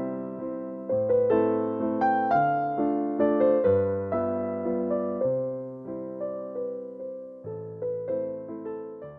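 Background piano music: a slow melody of single notes over held bass notes, each note fading after it is struck.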